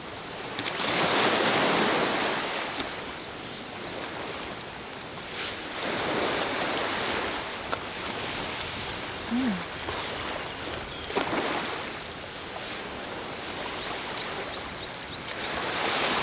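Sea waves breaking on the shore, the surf swelling roughly every four to five seconds, with wind.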